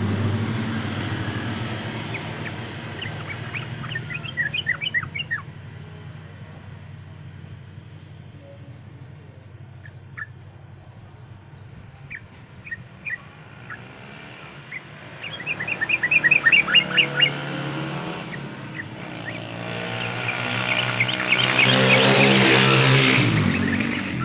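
Sooty-headed bulbul (trucukan) song: short runs of quick, repeated chirping notes, loudest about two-thirds of the way in. A passing vehicle's engine hum fades at the start and swells again near the end.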